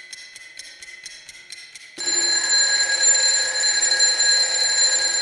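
Electronic alert-style tones: a quiet, fast beeping pattern of about five pulses a second, then about two seconds in a much louder sustained high-pitched tone over a hiss that holds to the end.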